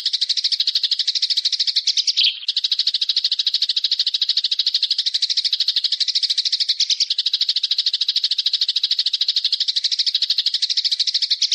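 A bird's long, fast trill of rapidly repeated high notes, with a short break about two seconds in and an abrupt stop at the end.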